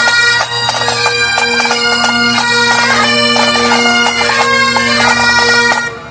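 Great Highland bagpipes played by several pipers: the drones hold a steady low tone under the chanter melody, which is ornamented with quick grace notes. The tune ends and the pipes stop near the end.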